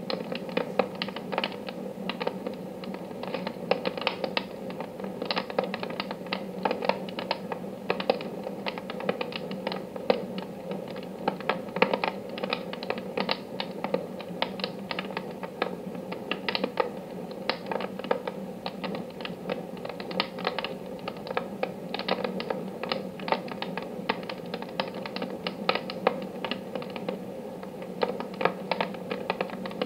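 Wood fire burning in a wood-burning stove, crackling with dense, irregular pops and snaps over a steady low background.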